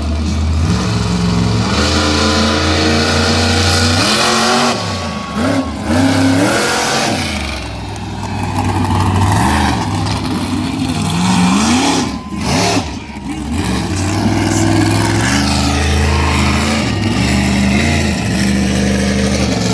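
Monster truck engine revving hard, its pitch rising and falling several times, with stretches held at high revs.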